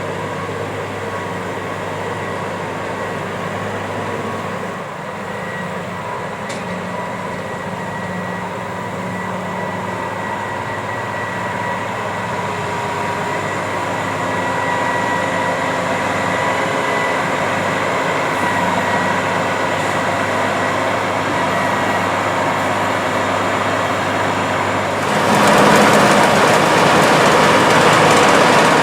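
Case IH 8250 Axial-Flow combines running while harvesting corn: a steady engine drone under a constant high whine. About 25 seconds in it becomes clearly louder and holds there.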